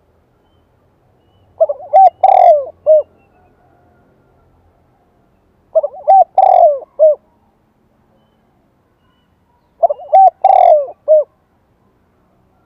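Spotted dove cooing: three phrases about four seconds apart, each a short run of notes around a longer, louder coo in the middle.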